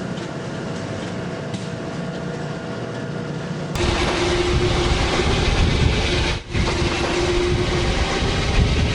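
Steady machinery noise with faint steady tones. About four seconds in it cuts abruptly to louder machinery with a steady hum, briefly dropping out about two and a half seconds later.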